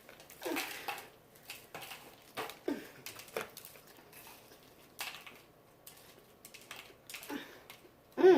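Eating fried chicken wings: irregular crunches, chewing and small clatters of the wings and bones being handled on plates, with a few short vocal sounds now and then and a louder one near the end.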